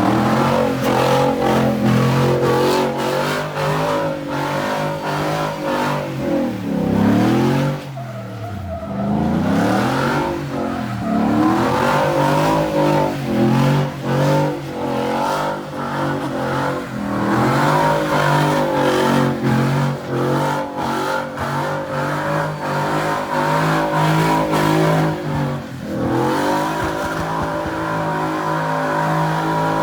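A car engine held at high revs with the pitch swinging up and down, dropping sharply and climbing back about a quarter of the way in and again near the end, with tyres squealing and skidding: a car being spun in donuts or burnouts.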